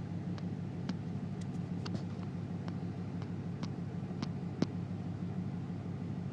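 1994 Jeep Grand Cherokee's 5.2-litre V8 idling steadily on its own, with a few scattered light clicks over the low engine note.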